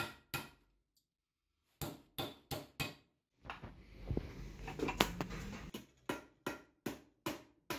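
A run of short, sharp knocks or taps, about two to three a second, in bursts with a stretch of rubbing or scraping noise in the middle.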